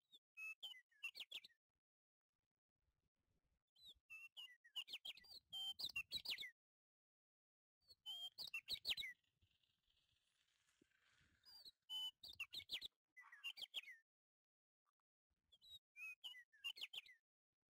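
A bird chirping in about five short bursts of quick, high chirps with pauses between.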